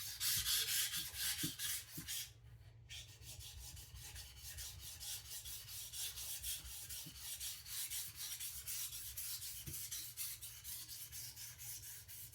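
Kitchen knife blade being rubbed back and forth on a whetstone, a rhythmic scraping hiss of steel on stone, several strokes a second, with only the blade's weight as pressure to grind away the shoulder behind the edge. The strokes pause briefly about two seconds in, then carry on quieter.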